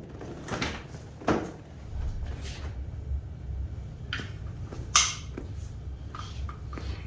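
Scattered knocks and clicks of metal parts and hand tools being handled, a sharp click about five seconds in, over a low steady rumble that starts about two seconds in.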